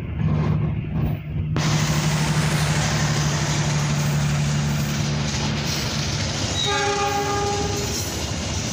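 A CC206 diesel-electric locomotive and its passenger coaches passing through at speed. A steady engine hum is followed, from about a second and a half in, by a loud rush of wheels on rail as the coaches go by. A train horn sounds for about a second near the end.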